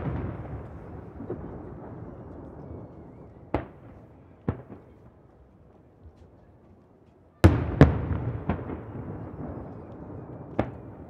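Aerial firework shells bursting over the sea, a single bang every second or few, with a close pair of loud bangs just past the middle. Each bang trails off in a long echoing decay that reverberates around the bay.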